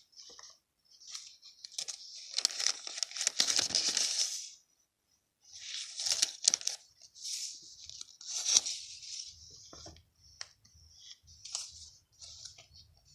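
Paper being handled: irregular bursts of rustling and crinkling, loudest in the first half, with small taps between them.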